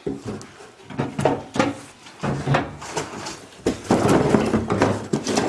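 Split firewood logs knocking against each other and the stove as they are loaded into a woodstove's firebox, a run of separate clunks, with a louder, busier stretch of sound from about four seconds in.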